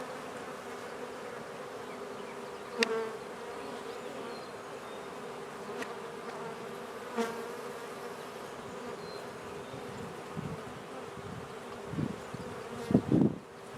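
A honey bee colony buzzing steadily around its opened hive, a continuous hum. A sharp click comes about three seconds in, and a few low thumps sound near the end.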